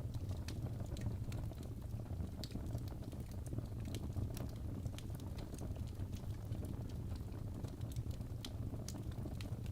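Birch logs burning in a fireplace, crackling with many small sharp pops at an uneven pace over a steady low rumble.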